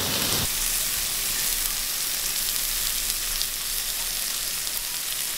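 Squid and garlic sizzling steadily as they fry in hot oil in a wok on a gas camp stove, with a few faint spattering ticks.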